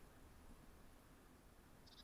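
Near silence: faint outdoor background hiss from a trail camera. Right at the end a small bird starts a quick series of high chirps.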